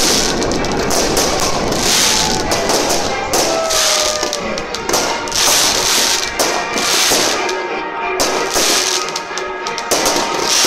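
Fireworks display crackling and banging in a continuous dense barrage, with falling whistles about four seconds in, over music playing.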